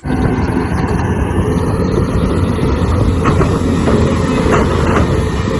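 Loud, steady heavy-engine rumble with a low drone. It starts abruptly and cuts off suddenly.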